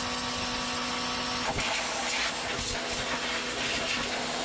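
A motor-driven machine running steadily, a constant hum under a loud hiss, that cuts off at the end.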